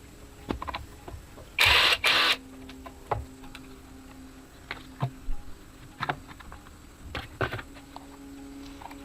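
Repair-work sounds: light clicks and knocks of tools and small parts, with two short loud hissing blasts about two seconds in, over a faint steady hum.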